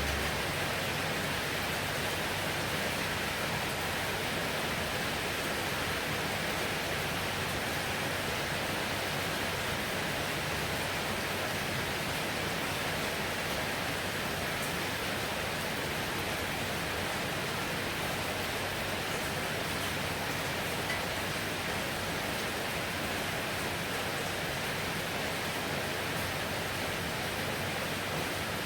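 Heavy rain pouring steadily, a dense, even hiss with no thunder or separate drops standing out.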